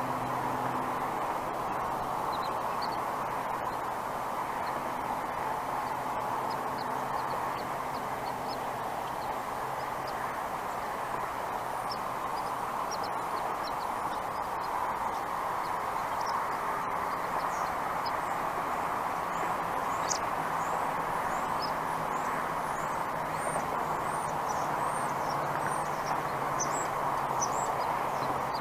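Small birds chirping: short, high chirps scattered through, more frequent in the second half, over a steady background rush with a faint low hum.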